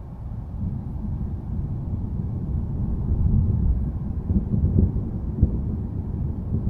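Low, rolling thunder rumble that swells over the first few seconds and then keeps rumbling deep and steady.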